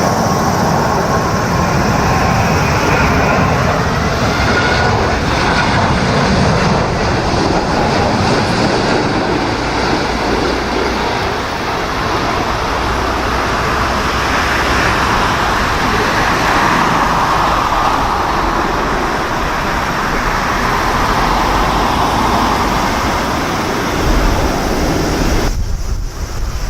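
Boeing 787 jet engines' steady roar as the airliner comes in to land, mixed with strong wind buffeting the microphone. The sound drops off abruptly near the end.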